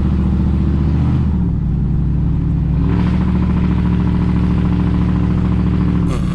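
Straight-piped pickup truck exhaust droning while cruising. The engine note dips briefly about a second and a half in, climbs back and holds steady, then drops near the end.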